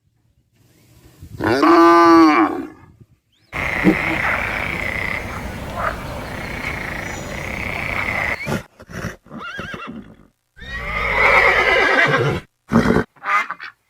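A sequence of farm animal calls. About a second in comes a drawn-out call that rises and then falls in pitch. A long steady, noisy stretch follows, and further calls come near the end.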